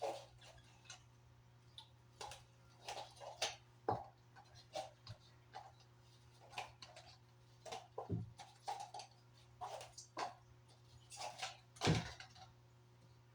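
Kitchen handling sounds: scattered light clicks, taps and knocks of utensils and containers at irregular intervals, with a few louder knocks, over a steady low hum.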